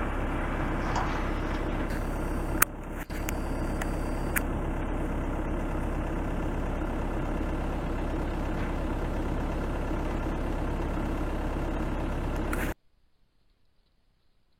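Vehicle engine idling steadily, with a few faint clicks. It cuts off suddenly near the end, leaving near silence.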